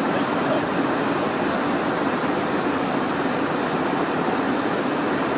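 Steady cockpit noise of a Cessna Citation Encore business jet: even rushing air with a faint steady hum from its twin turbofan engines.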